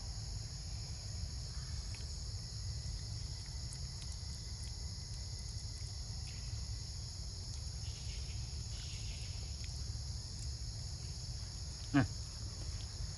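Steady, high-pitched chorus of insects droning without a break over a low rumble. A single sharp click near the end.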